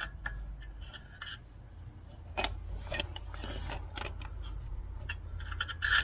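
Metal wheelbarrow wheel parts being pushed and worked onto the axle by hand: scattered sharp clicks and knocks with brief squeaks of metal rubbing.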